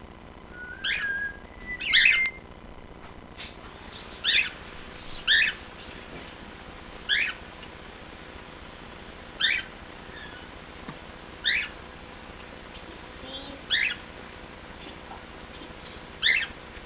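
Cockatiel giving short, loud chirping calls over and over, about one every one to two seconds, with two brief whistled notes near the start.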